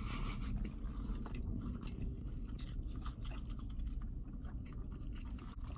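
People chewing food with soft, crunchy clicks, heard over a steady low background hum.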